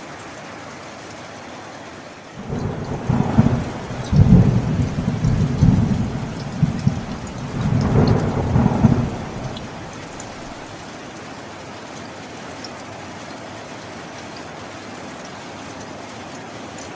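Steady rain, with a roll of thunder breaking in about two seconds in. The thunder swells several times over some seven seconds, then dies back to the rain alone.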